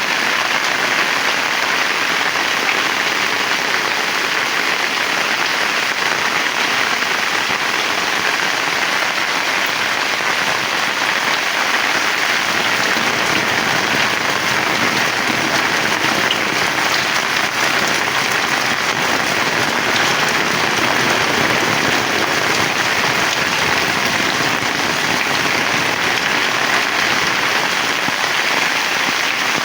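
Heavy rain falling steadily, a dense unbroken hiss of drops that holds the same level throughout.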